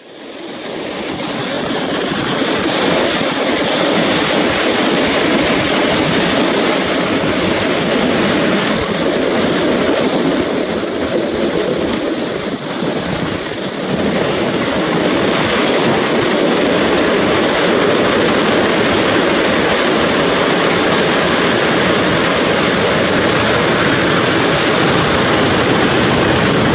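Passenger train braking into a station, heard from aboard: steady rolling and rumbling of the coaches, with a high, steady squeal from the brakes and wheels that sets in about two seconds in and dies away past the halfway mark.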